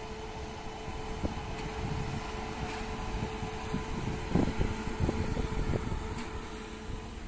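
WAP-7 electric locomotive and LHB coaches rolling slowly past: a steady hum over a low rumble, with a few clanks from about four to six seconds in.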